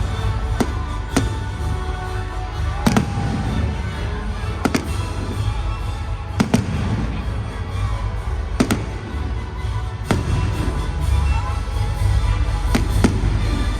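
Aerial fireworks going off in a show: sharp bangs every one to two seconds, with crackling and a low rumble between them. Music plays underneath.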